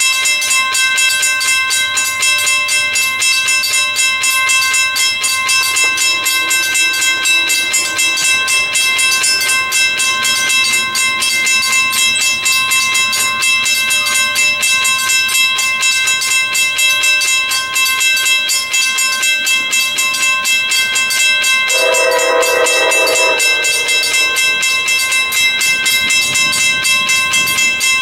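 Railroad grade-crossing warning bell ringing loudly and steadily in a fast, even rhythm. An approaching Amtrak train sounds its horn in one blast of about a second and a half, roughly three-quarters of the way through.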